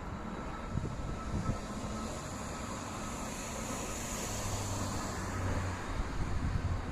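Learjet 45's twin Honeywell TFE731 turbofan engines heard as a steady jet rush during its landing, with a high hiss that swells about four seconds in over a low rumble.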